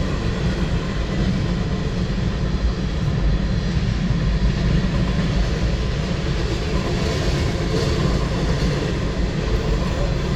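Freight train's tank cars rolling past, a steady noise of steel wheels on rail.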